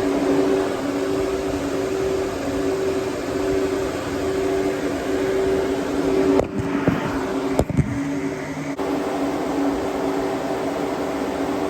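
Ford 351 Windsor V8 running steadily, with a couple of sharp clicks and a brief dulling of the sound a little past the middle.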